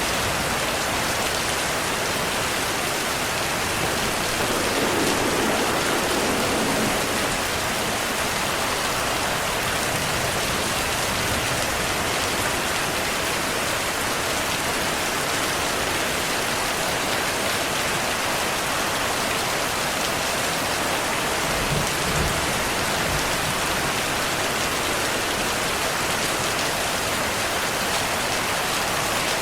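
Steady rain falling, a dense even hiss of drops, with faint low rumbles of distant thunder about five seconds in and again a little past twenty seconds.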